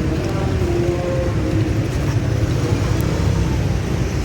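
Road traffic: a vehicle engine running close by over a steady low rumble of street noise.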